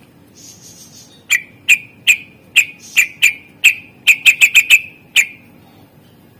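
Cucak ijo (leafbird) calling a series of about a dozen short, sharp, high notes, irregularly spaced and running into a quick burst of five near the end.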